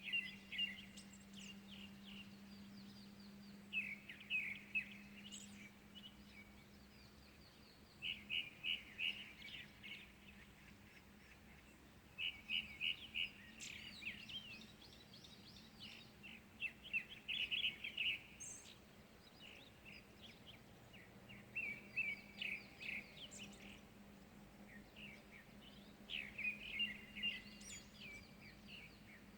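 Small birds singing in the early morning: short bursts of rapid, high chattering notes, one every few seconds, over a faint steady low hum.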